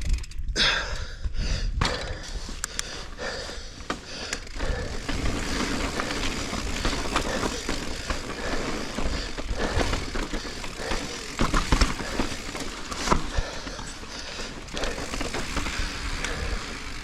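Mountain bike (Giant Reign 29 enduro bike) rolling over rock: a steady rush of tyre and wind noise with frequent sharp clicks and knocks as the bike rattles over bumps.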